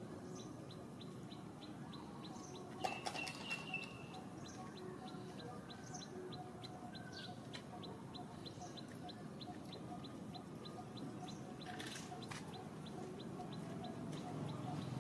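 Faint outdoor ambience of scattered short high bird chirps over a steady high ticking, about three ticks a second, with a brief louder high squeak and a few clicks about three seconds in.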